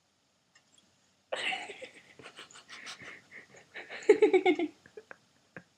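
Wheezy, breathy laughter: a sudden gasp of breath, then a run of quick ha-ha pulses about four seconds in.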